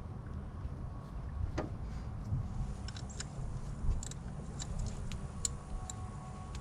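Scattered light metallic clicks and ticks of hand tools, a ratchet and socket at a spark plug being fitted, over a steady low rumble.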